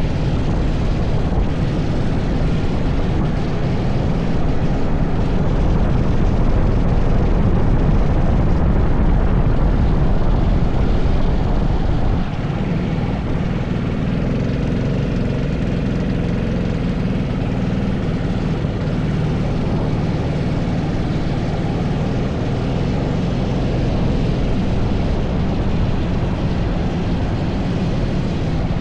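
80cc kart engine running continuously at speed, heard onboard; the level drops a little about twelve seconds in and stays steadier afterwards.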